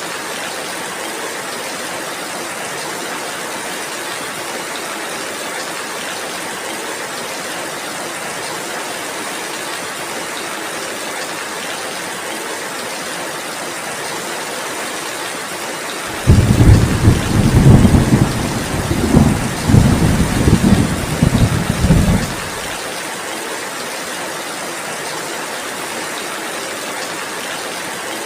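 Steady heavy rain, with a clap of thunder breaking in suddenly a little past halfway and rumbling in several surges for about six seconds, the loudest sound, before fading back under the rain.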